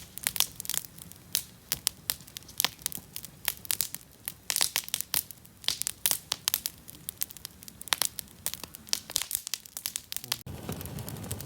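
Wood campfire crackling, with many sharp, irregular pops and snaps. About ten seconds in the sound changes abruptly to a steady low rushing noise.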